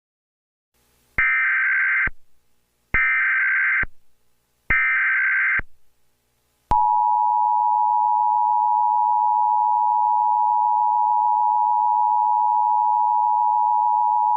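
Emergency Alert System tones: three short, identical bursts of the warbling SAME data header, each just under a second long, then about seven seconds in the steady two-tone EAS attention signal starts and holds.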